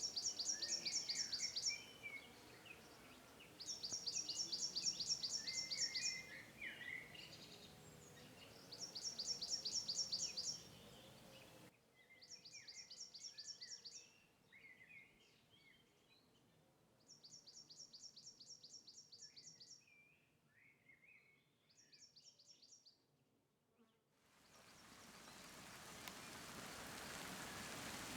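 An insect stridulating in repeated trains of rapid, high-pitched pulses, each lasting about two seconds with pauses between, over small birds chirping. About four seconds before the end, an even hiss of rain rises in.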